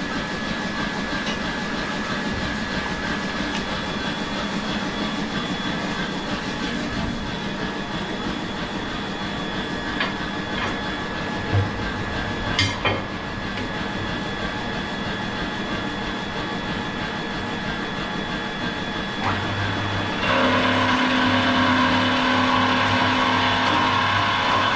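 Steady workshop machinery drone with a few sharp metallic knocks. About twenty seconds in, a louder machine with a pulsing hum and steady tones starts up.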